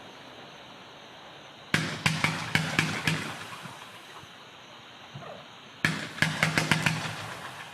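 Consumer 500-gram fireworks cake firing: twice, a sharp bang followed by a quick run of crackling pops that dies away, about four seconds apart.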